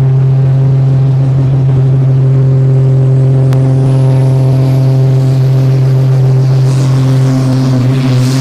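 Super Sport class pulling tractor's engine running loud at steady high revs, its pitch holding level, then starting to waver near the end.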